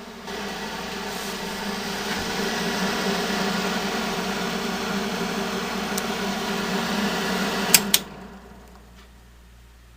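A 1970 Triangle Mobile Home Products bathroom exhaust fan starts up, rises to speed over a couple of seconds and runs steadily with a hum and an airy hiss. Its bearings are worn from long use dry and dirty, which the owner says makes it rattle at startup. Near the end there are two sharp clicks, and the fan winds down.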